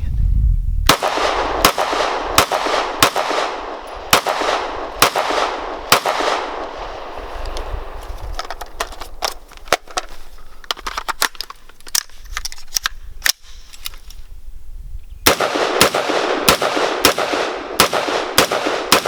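Gunshots fired in strings during a timed shooting drill, each shot echoing. A run of shots starts about a second in, the firing thins out in the middle, and a quicker final string of about seven shots comes near the end.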